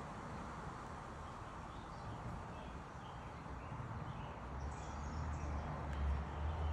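Faint, scattered short bird chirps over a steady outdoor background hiss. A low rumble grows louder about halfway through and is the loudest sound near the end.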